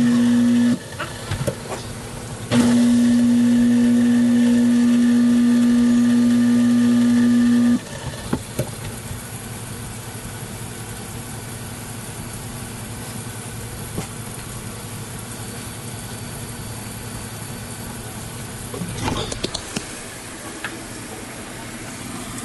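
InSinkErator Badger 500 1/2 HP garbage disposal motor running with a steady hum, cutting off within the first second, running again for about five seconds, then switched off near the middle. Under and after it, a steady hiss with a few small clicks.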